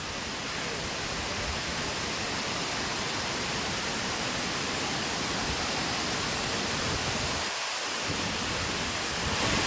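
Tumpak Sewu waterfall's falling water, a steady even rushing noise.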